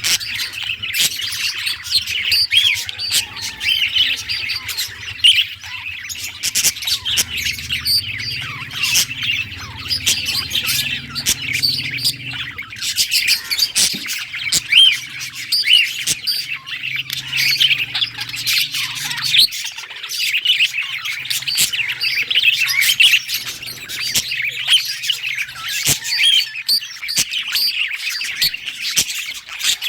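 Budgerigars chattering and warbling: a dense, unbroken stream of chirps, squawks and sharp clicks. A faint low hum runs underneath through the middle.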